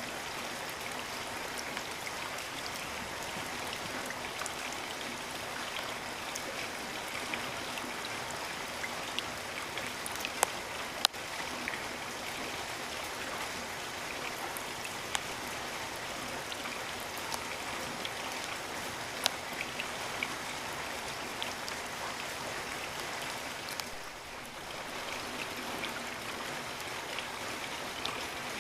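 Steady rain falling as an even hiss, with scattered sharp drops striking close by; two of the loudest land about ten and eleven seconds in.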